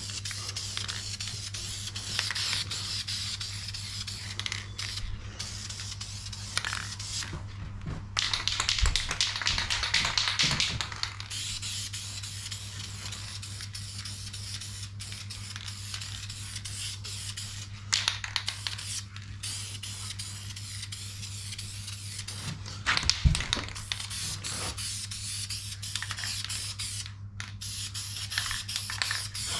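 Aerosol can of VHT paint spraying a coat onto an engine: a hissing that runs in long passes with short breaks between them, over a steady low hum.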